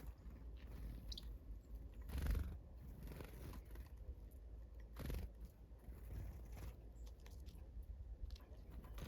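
Faint knocks and crunches of small wild birds pecking at food, the loudest about two seconds in and another about five seconds in, with a brief high chirp about a second in.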